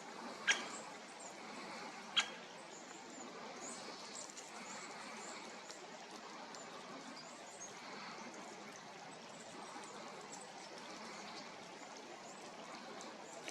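Faint, high chirping calls of small birds scattered over a steady background hiss, with two sharp clicks about half a second and two seconds in.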